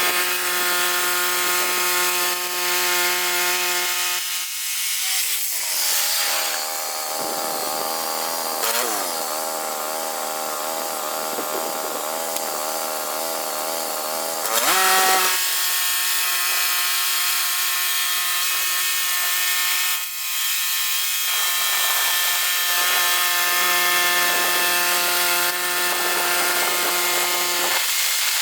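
Two-stroke chainsaw at full throttle. Its revs drop and waver as it bites into a log from about four seconds in, and it revs back up freely after about eleven seconds of cutting. It dips briefly again later, and the revs fall near the end.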